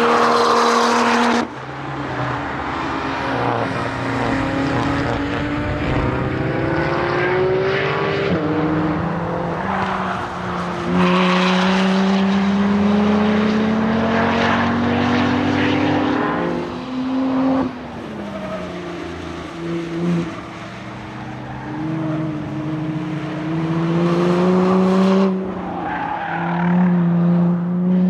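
Lotus Exige V6's supercharged V6 engine at speed on track. Its note climbs in pitch again and again as the revs rise, with a sharp drop in revs about two-thirds of the way through.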